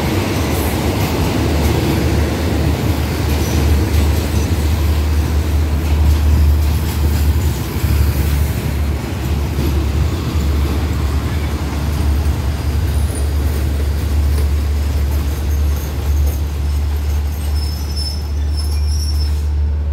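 Passenger coaches of a Thai special express train rolling slowly along the platform, a steady low rumble with faint wheel squeals near the end.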